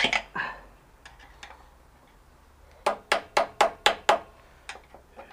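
Hammer knocking on a jammed part of a spinning bike during a bearing replacement. Two knocks at the start, then a quick run of about seven sharp blows about three seconds in, and a couple of lighter taps near the end.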